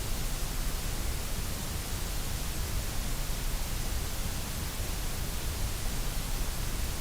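Steady electronically generated white noise: an even, unchanging hiss spread across the whole range from low rumble to high treble.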